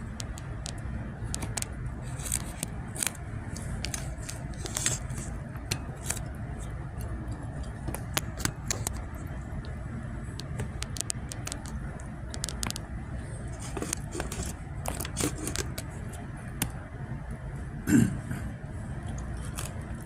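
Kitchen handling sounds during cooking: scattered clicks, clinks and scrapes of utensils and dishes over a low steady hum, with one louder knock near the end.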